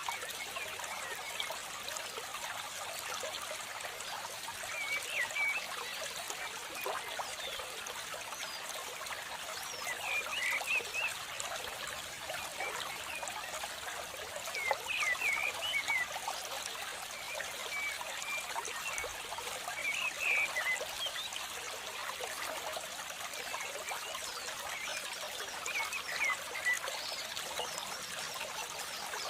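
Steady trickling, flowing water like a small stream, with short high chirps scattered every few seconds.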